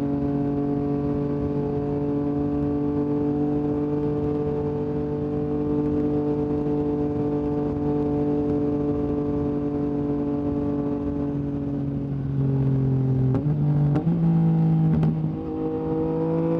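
Yamaha MT-09's three-cylinder engine through an Akrapovic exhaust, running steadily at a slowly falling pitch. About twelve seconds in it gets louder, and the engine note jumps up and down abruptly a few times, as with quick gear changes.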